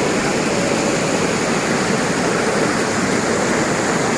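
River water pouring over a small waterfall: a steady, unbroken rush of falling water.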